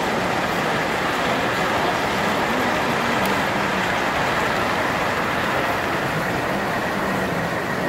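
Steady, even din of a busy train-show hall, with model trains running on a layout in it.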